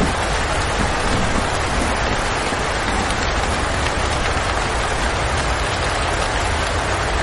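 Steady rain, an even hiss with no breaks, over a continuous low rumble.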